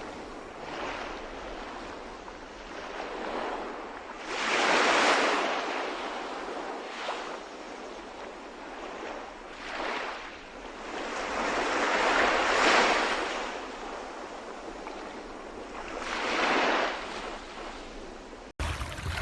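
Sea waves washing in slow, repeated swells, with some wind noise; the sound cuts off suddenly near the end.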